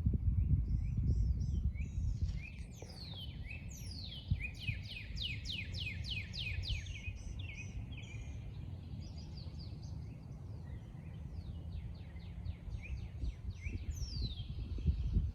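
Songbirds singing: series of quick downward-slurred notes, running into a fast repeated string of them a few seconds in and again near the end. A low rumble runs underneath, heavier at the start and near the end.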